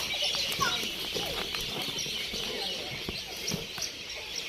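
Small birds chirping and twittering densely and steadily, with a few short lower calls mixed in.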